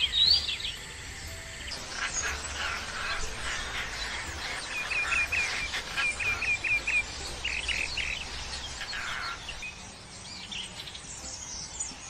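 Several wild birds calling and singing at once, a mix of whistles and chirps. In the middle one bird gives two quick runs of short, repeated notes, and the calling thins out near the end.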